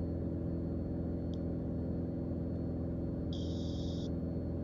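Mooney M20J's four-cylinder Lycoming IO-360 engine and propeller droning steadily at climb power, heard through the cockpit audio. A brief hiss lasting under a second comes about three seconds in.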